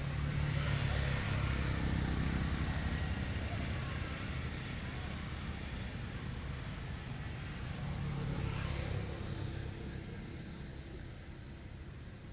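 A motor vehicle's engine running, louder at the start and again about eight seconds in, then fading away.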